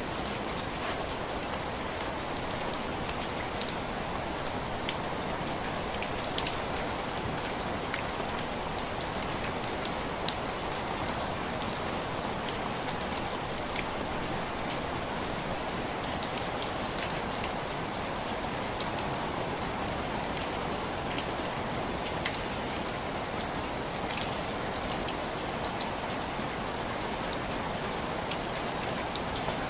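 Steady rain with scattered sharp drop ticks, the sound of rain tapping on window glass.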